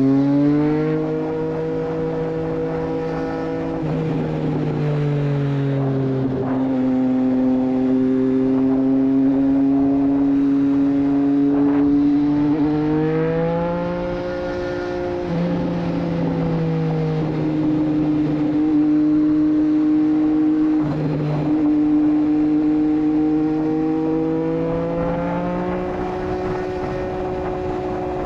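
Triumph Street Triple 765 RS's inline three-cylinder engine running through a Racefit Growler full exhaust while riding in traffic. Its pitch holds steady for a few seconds at a time, then steps up or down about half a dozen times as the engine speed changes.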